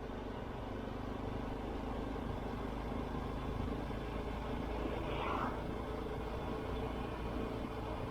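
Honda CT125 Hunter Cub's single-cylinder engine running steadily while riding, with a short higher-pitched sound about five seconds in.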